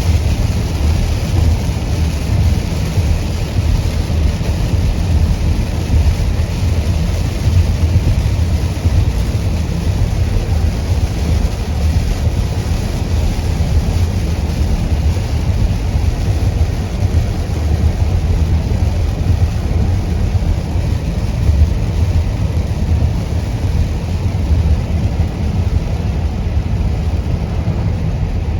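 Steady deep rumble of a car's road and engine noise, heard from inside the cabin while driving, with a lighter even hiss above it.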